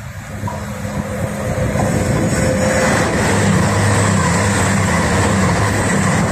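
East Midlands Railway Class 222 Meridian diesel train passing through the station at speed without stopping. A low engine hum and the rush of wheels on rail build over the first few seconds, then stay loud and steady as the carriages pass close by.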